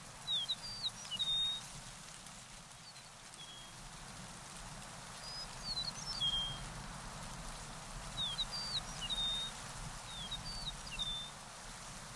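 A songbird singing: four short phrases of quick, sweeping high notes, each ending on a brief held note, repeated every two to three seconds over a steady outdoor hiss.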